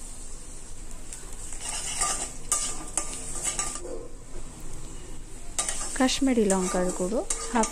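Sliced onions and green chilli sizzling in hot oil and ghee in a wok, with a wooden spatula stirring and scraping against the pan from about two seconds in.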